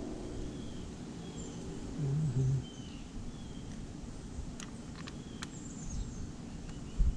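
Small birds chirping in the background in short, repeated calls. A few sharp clicks come in the middle, and there is a brief low hum about two seconds in.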